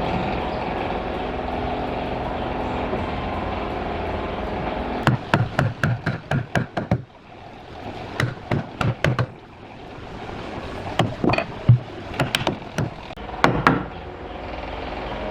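A power tool runs steadily for about five seconds and then stops. Quick runs of sharp knocks on wood follow, in several clusters of taps.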